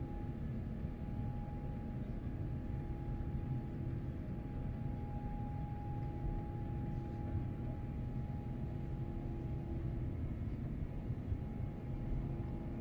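Steady cabin noise inside an Airbus A350-900: a deep, even rumble of airflow and its Rolls-Royce Trent XWB engines, with two faint steady hums above it.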